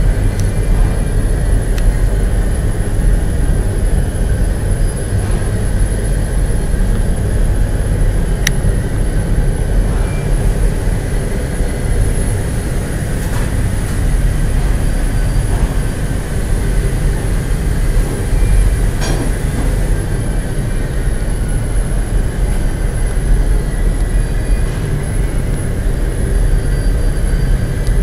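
Steady, loud low rumble of running industrial plant machinery, with a faint high-pitched whine throughout and a few light clicks.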